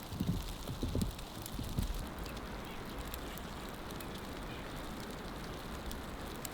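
Footsteps crunching through deep snow, a few soft steps in the first couple of seconds, then a steady hiss of wind and blowing snow.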